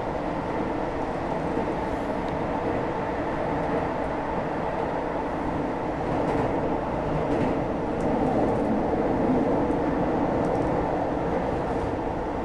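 Keio 2000-series commuter train running through a tunnel, heard from inside the car: a steady rumble of wheels on rail and running gear that grows a little louder from about six seconds in.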